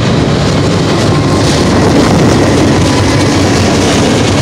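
Double-stack freight train passing close by: a steady rumble and clatter of well-car wheels on the rails. Near the end the rear distributed-power diesel locomotive, a GE Dash 9-44CW, draws level.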